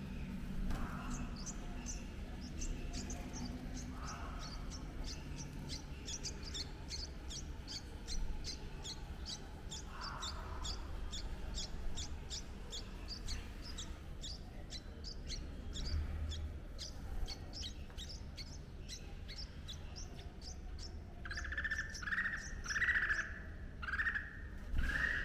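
Birds chirping: thin, high chirps repeat several times a second for most of the stretch, with a few short lower calls between them. Near the end comes a quick run of about five louder, lower calls.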